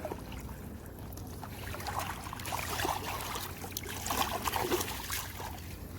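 Water trickling and splashing, growing louder about two seconds in, with scattered small knocks.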